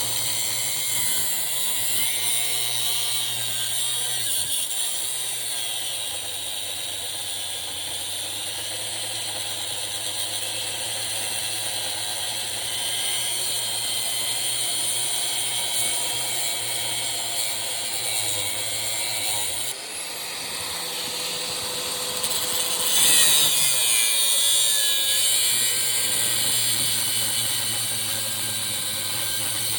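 Electric angle grinder with a cutting disc running steadily with a high whine, cutting into the metal of a window air conditioner. The sound breaks off and changes about two-thirds of the way through, then comes back louder.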